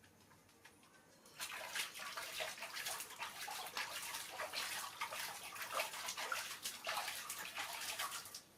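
Water pouring and splashing in a bath, starting about a second and a half in and stopping suddenly near the end.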